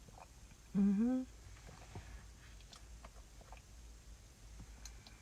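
A short 'mm' hum with a rising pitch about a second in, then faint, scattered mouth clicks of chewing food.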